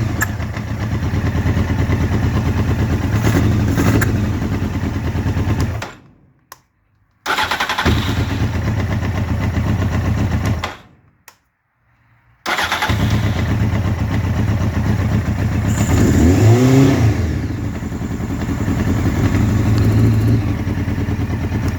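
A 1999 Honda CBR900RR's inline-four engine running on a cold start. It dies out twice, falling silent for a second or two each time, and runs again, with one short rev that rises and falls about two-thirds of the way through.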